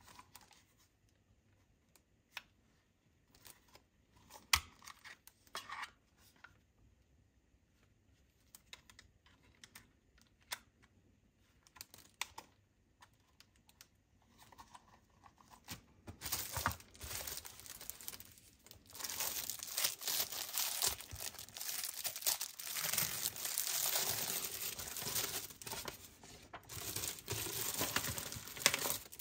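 Packaging being handled: scattered light taps and clicks for about the first half, then from about halfway on a continuous run of crinkling and tearing, as of wrapping or plastic being pulled open.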